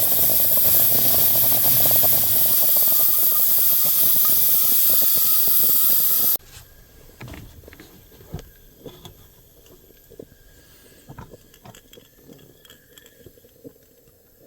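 Portable camping gas stove burner hissing steadily and loudly, then cutting off suddenly about six seconds in as the flame is shut off. It is followed by faint scattered clinks and knocks of cookware and utensils.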